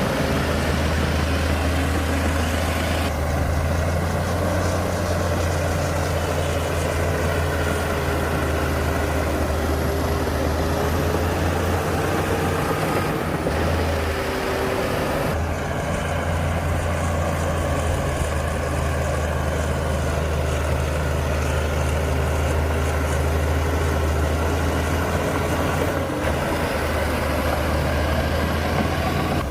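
Diesel engine of heavy earthmoving machinery running steadily with a low rumble, over a faint whine that wavers slightly in pitch. The sound shifts abruptly a few times.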